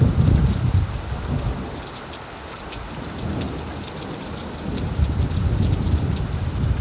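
Heavy rain pattering on an old tin roof, with a low thunder rumble that dies away after the first second and swells again about five seconds in.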